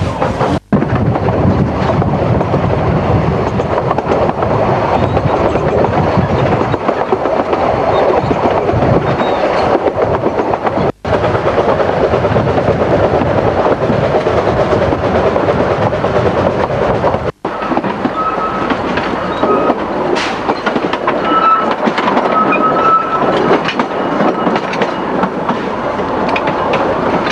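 Vale of Rheidol narrow-gauge train running along the line, with continuous rumble and wheels clattering over the rails. A few short high wheel squeals come in the second half, and the sound breaks off three times for an instant.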